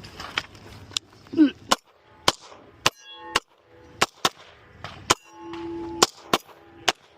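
Airsoft pistol firing a string of about a dozen sharp shots at an uneven pace, with steel targets ringing after some hits, the longest ring just after five seconds in.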